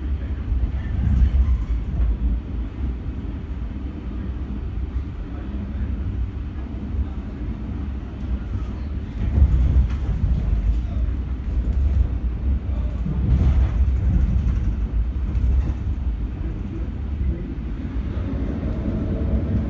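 Interior running noise of an SKM Trójmiasto electric commuter train: a steady low rumble of wheels on rail, with louder swells about nine and a half and thirteen and a half seconds in. A steady hum joins near the end.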